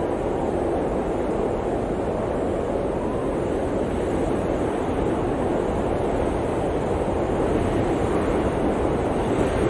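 Blizzard wind blowing steadily, a dense rushing noise that grows slightly louder near the end.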